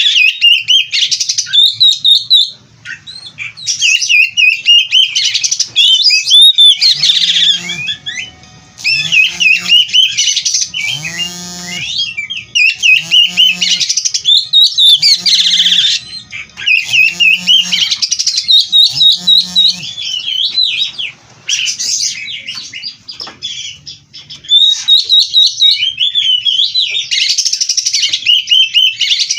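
Oriental magpie-robin (kacer) singing loudly in full song, fast, warbling phrases of varied and mimicked notes broken by short pauses. Through the middle, a lower call repeats about once a second under the song.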